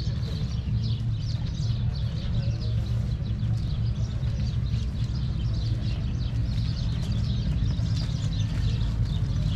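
Small birds chirping over and over, over a steady low hum.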